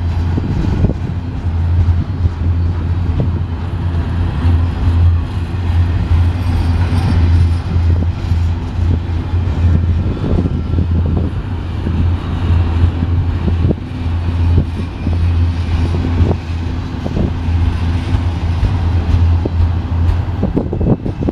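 Loaded double-stack container well cars of a BNSF intermodal train rolling past close by: a steady low rumble of steel wheels on rail, with irregular clicks and knocks from the wheels and car connections.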